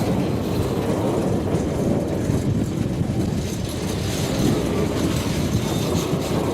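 Train rolling along the narrow-gauge track, a steady noise of steel wheels on rail.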